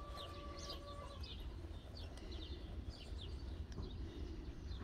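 Small birds chirping: short, high chirps that fall quickly in pitch, repeated at irregular intervals over a low outdoor rumble. A faint steady hum stops about a second in.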